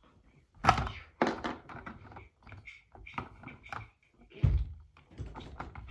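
Plastic Lego pieces clicking and knocking while the roof is taken off a Lego ice cream truck and minifigures are pulled out. It is a string of short clicks with a louder knock about a second in and a duller thump about four and a half seconds in.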